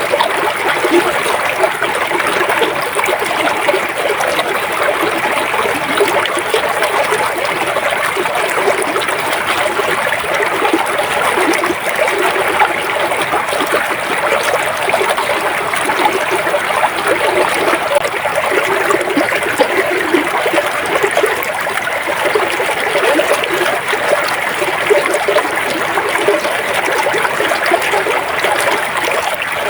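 River water flowing steadily, a constant babble of small trickles and splashes.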